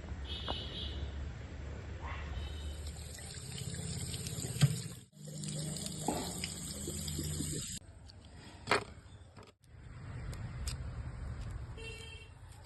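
Water running and splashing, cut off abruptly twice, with a couple of sharp clicks.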